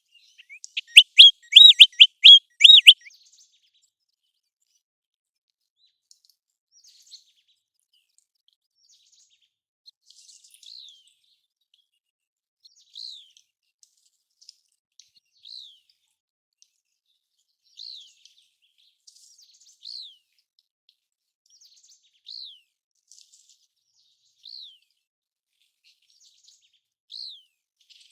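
American golden plover calling. A quick, loud run of about half a dozen whistled notes comes in the first three seconds. After a pause, single softer whistles, each falling in pitch, come about every two seconds.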